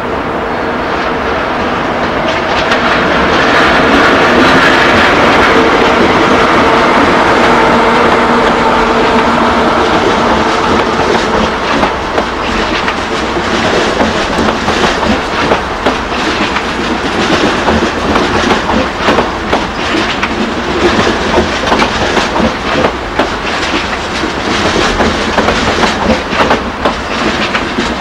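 ICE high-speed train running slowly past. The power car's steady hum swells as it draws level, then the coaches roll by with the wheels clicking regularly over rail joints and points.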